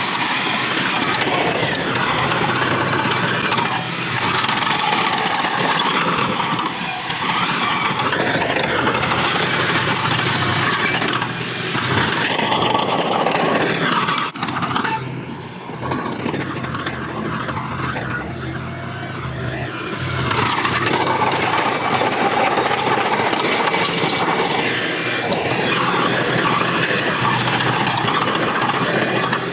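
Heavy diesel earthmoving machinery working, its engine running continuously. The sound eases off for a few seconds around the middle, then comes back up.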